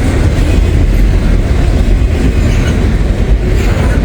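Intermodal freight train rolling past at close range: a loud, steady rumble of container cars on the rails.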